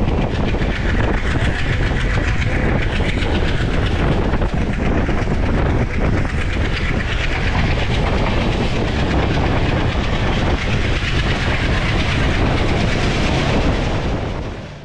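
Passenger train running along the track at speed, heard from the doorway of a moving coach: loud steady wheel-and-rail noise with rushing air. It fades out near the end.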